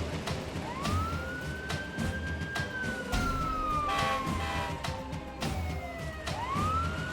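Emergency-vehicle siren wailing: one quick climb, a long slow fall, then a climb again near the end, over background music with a steady low beat.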